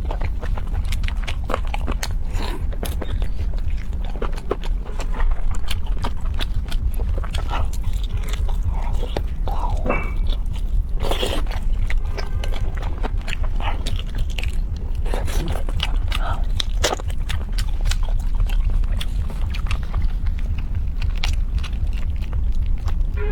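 Close-up biting and chewing of a fried chicken leg: irregular crunches, mouth smacks and wet clicks, over a steady low hum.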